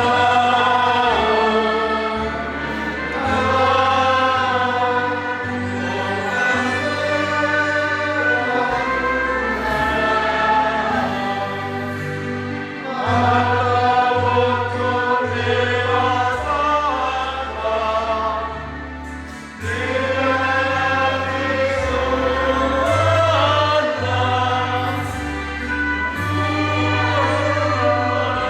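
A choir sings a slow hymn in harmony over a low accompaniment that moves in held bass notes, with short breaks between phrases.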